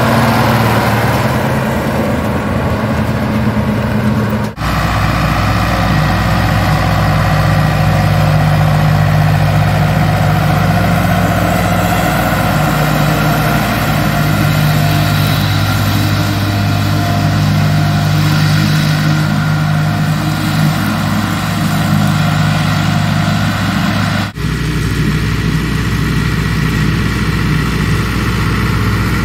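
Ursus farm tractor's diesel engine running steadily under field work, in three stretches with abrupt changes a few seconds in and near the end.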